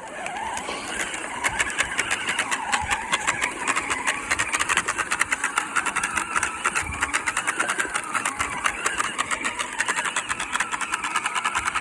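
Child's ride-on toy tractor driving off with a load of rocks, its motor whining up as it pulls away, then running steadily with a fast, continuous rattle.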